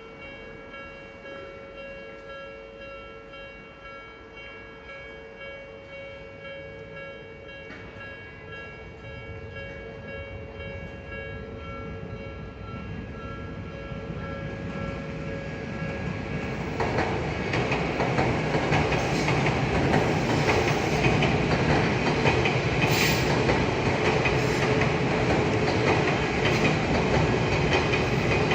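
A Japanese level-crossing alarm rings with a steady, repeating electronic tone while a train approaches, growing gradually louder. About two-thirds of the way in, the train reaches the crossing and its running noise swells and drowns out the alarm, with a sharp click partway through.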